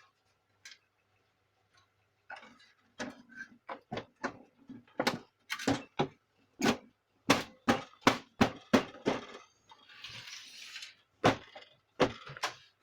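Plastic printer housing panels being fitted and snapped into place: a run of sharp plastic clicks and knocks, uneven in spacing, with a brief scraping rub about ten seconds in.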